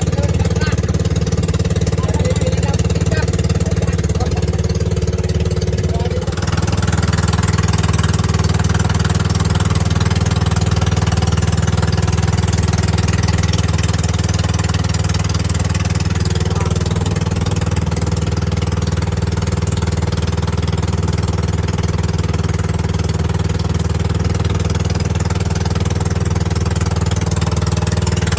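Boat engine running steadily with a deep, even drone. About six seconds in it dips briefly, then a louder hiss joins above the drone.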